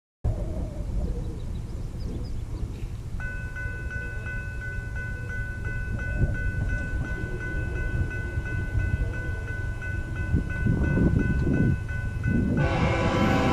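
Approaching train: a steady low rumble, with a steady ringing tone from about three seconds in. Near the end the locomotive horn comes in loud.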